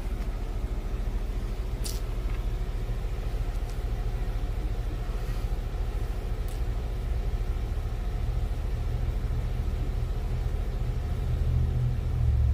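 Stopped cars idling, a steady low rumble that grows louder near the end, with a single click about two seconds in.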